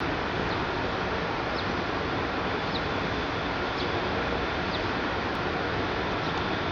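Steady noise of an EF66 electric locomotive and its container freight train approaching slowly, with short faint high chirps about once a second.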